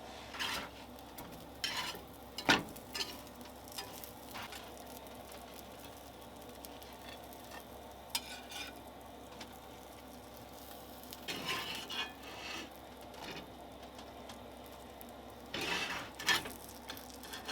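Food frying in a pan, a faint steady sizzle, with a utensil stirring and scraping against the pan in short strokes and clicks, one sharp knock about two and a half seconds in.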